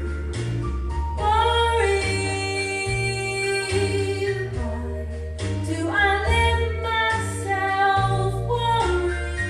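A woman singing a slow country ballad, holding long notes with slides between them, over instrumental accompaniment with a moving bass line.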